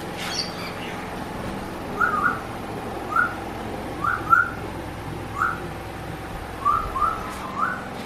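A bird giving short rising whistled calls, about nine notes, some in quick pairs or threes, over a steady low hum.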